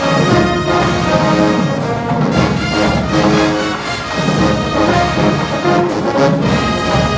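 Marching band playing loudly: a brass section holds full chords over a drumline's steady strikes.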